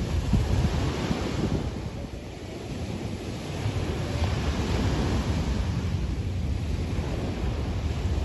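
Sea waves washing onto a beach in a continuous surge, easing off about two seconds in and swelling again from about four seconds, with wind buffeting the microphone.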